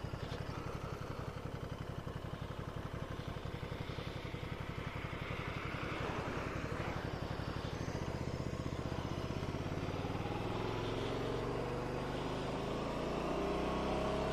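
Ducati Scrambler Sixty2's 399 cc air-cooled L-twin engine running on the move, with an evenly pulsing exhaust beat. From about halfway through, its pitch climbs steadily as the bike accelerates. Wind noise rushes underneath.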